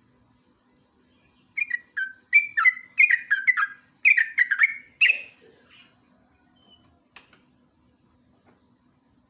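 Yellow-vented bulbul (trucukan) singing a fast run of short, falling, bubbly notes for about four seconds, starting a second and a half in. The rapid run is its 'ngeropel' song. A faint steady hum sits underneath.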